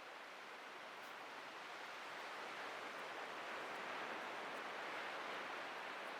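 Atlantic surf breaking and washing up the beach: a steady hiss of water that swells a little toward the middle.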